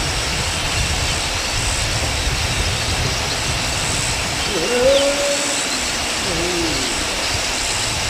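Steady loud hiss, with a low rumble at the start, and two short hooting bird calls, one about five seconds in and a lower, falling one a little later.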